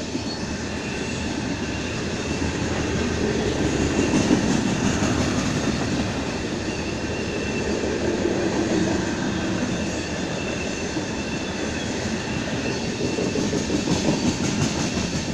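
Freight train's covered hopper cars rolling past: a steady rumble and clatter of steel wheels on the rails, with faint steady high tones above it.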